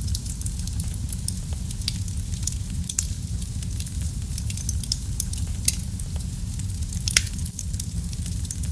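Wood fire burning in a fireplace: a steady low rumble of the flames, with irregular sharp crackles and pops from the burning wood, a few louder pops standing out.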